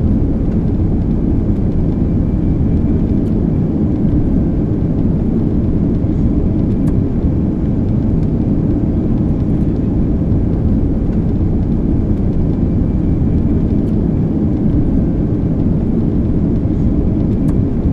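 Airliner cabin noise: a loud, steady low rumble of jet engines and airflow, unchanging throughout.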